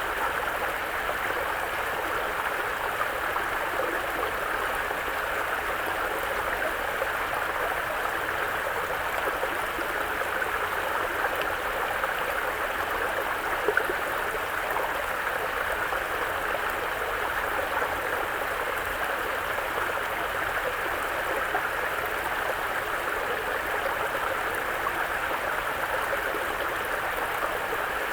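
Mountain brook flowing over rocks: a steady babble of running water, with one brief louder splash about halfway through.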